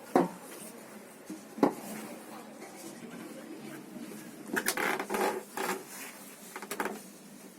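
Two sharp knocks about a second and a half apart, then a burst of clattering knocks about four and a half seconds in, over a low steady background.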